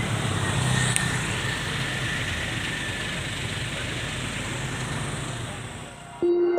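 Road traffic noise: vehicle engines running steadily in a traffic jam. Shortly before the end it fades and soft music with clear sustained notes starts abruptly.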